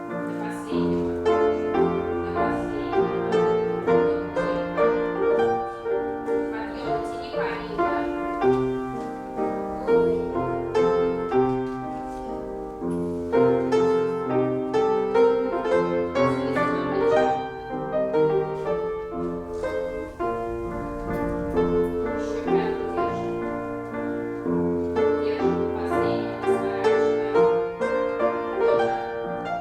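Piano playing a classical piece in a steady metre, as accompaniment for a ballet class exercise.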